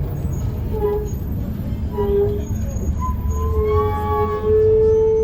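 Mercedes-Benz O405N2 city bus's brakes squealing as it slows: a couple of short squeals, then a longer one that gets louder and cuts off suddenly, over steady low engine and road rumble.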